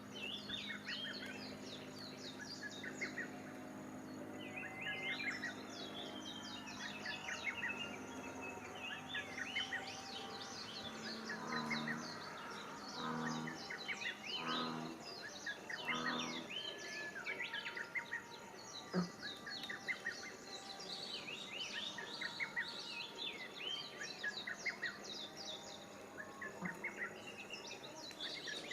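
Several small songbirds singing and chirping at once, a steady chorus of high, quick trills and twitters. In the middle a low call repeats four times, about a second and a half apart.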